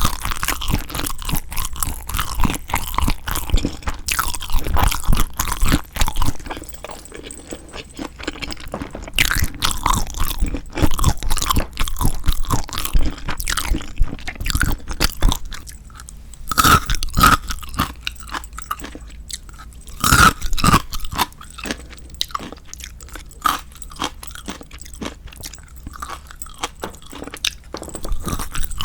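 Close-miked eating of spicy-marinated raw shrimp: wet chewing with crunching and biting, coming in busy stretches with quieter chewing between them.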